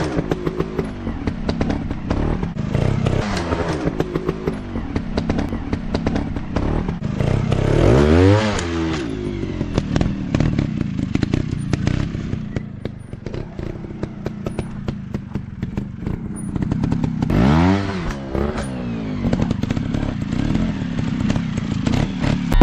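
Dirt bike engine running with repeated clattering and knocks, revving up and back down twice, about eight seconds in and again about seventeen seconds in.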